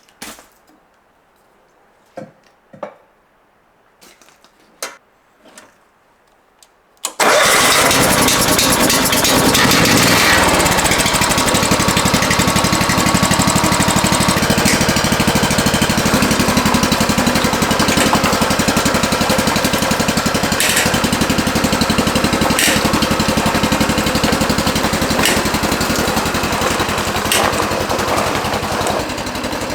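A few light clicks and knocks, then about seven seconds in an engine starts abruptly and keeps running loudly and steadily with a fast, even pulse.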